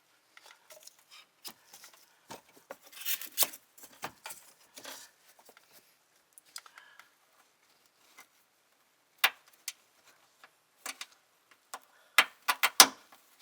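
Scattered sharp clicks, taps and brief rustles from handling car trim parts and tools, with a quick run of louder clicks near the end.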